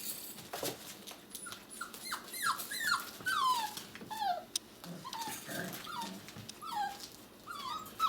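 Six-week-old puppies whimpering, a string of short, high cries that each fall in pitch.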